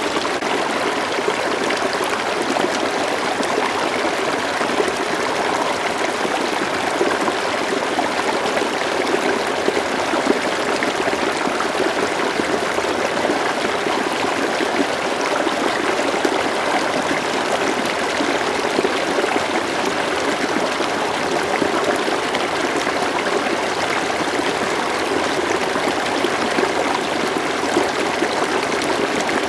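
River water flowing steadily, an even babbling rush with no pauses or changes.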